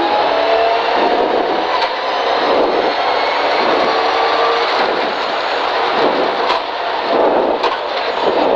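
Rally car engine heard from inside the cabin, pulling hard through the gears: it changes up into fifth, then the car slows and it shifts down to third near the end, with loud road and wind noise throughout.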